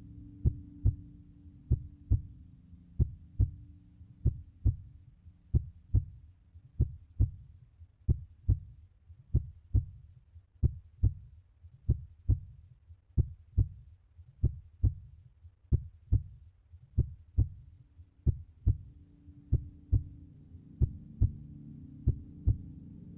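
Steady heartbeat-like double thumps, about one pair a second, over a low drone that fades away midway and returns near the end.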